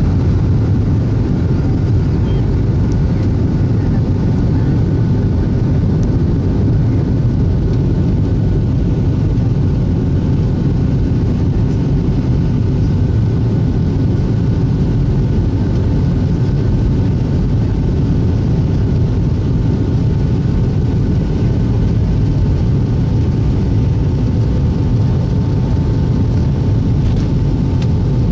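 Boeing 757-200 jet engines running, a steady loud rumble with faint steady whining tones over it.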